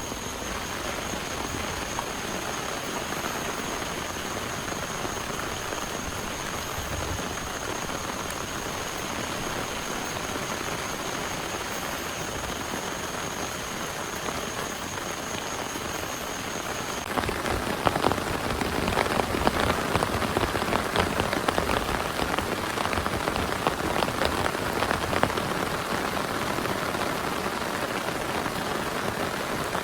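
Heavy rain falling steadily, with a faint high steady tone behind it. About two-thirds of the way through, the sound changes abruptly and grows louder, with dense, close drop impacts.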